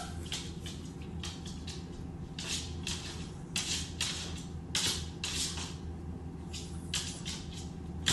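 A series of short, irregular soft scraping or rustling noises over a low steady hum.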